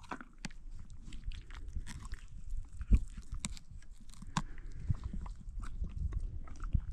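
An old horse chewing and crunching hand-fed treats, with irregular crisp crunches.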